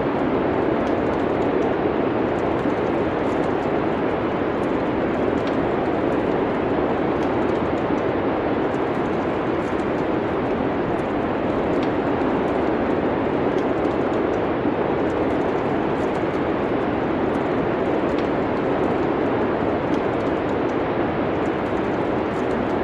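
Steady, even wind-like noise of a winter snowstorm ambience, with faint crackles of a wood fire scattered through it.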